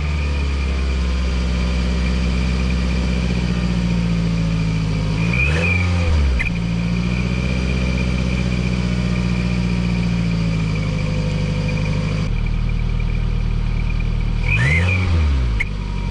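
A car engine idling with a cheap exhaust turbo whistle jammed into the tailpipe, giving a steady high whistle over the engine note. The engine is blipped once about five and a half seconds in and twice near the end, and the whistle rises and falls with each rev.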